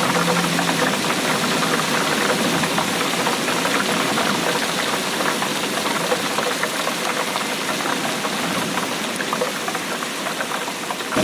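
Steady heavy rain: a dense, continuous patter of many drops hitting a surface.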